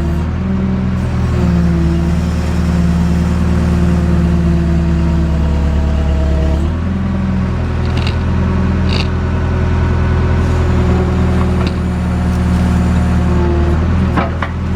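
JCB backhoe's diesel engine running steadily, its note shifting about seven seconds in, with a few short clanks later on.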